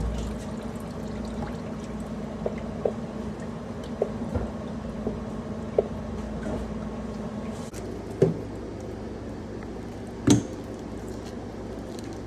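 Engine oil trickling and dripping as the oil filter is unscrewed by hand, with scattered light clicks and two louder knocks in the second half.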